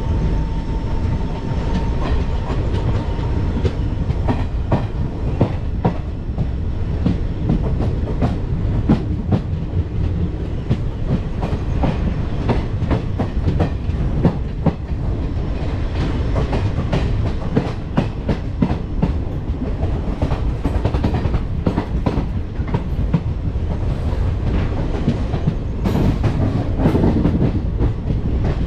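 Train running on the track: a steady low rumble with a dense, irregular clatter of wheels clacking over rail joints.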